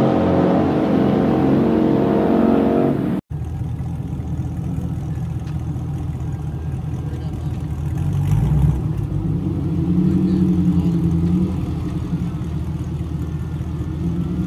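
A car's engine at high revs as it races away down the street. Then, after a sudden cut, a Chevrolet Camaro's engine running at the drag-race start line, its revs rising and holding for a few seconds around the middle.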